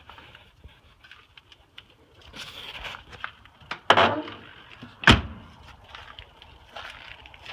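Handling noises on a Toyota pickup: small clicks and a rustle, then two loud thumps about a second apart, the second sharper and deeper, like a door or panel being shut.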